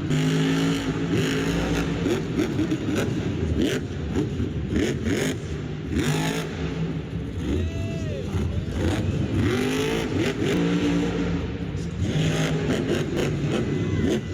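Monster truck engine revving hard over and over, its pitch climbing and dropping with each rev.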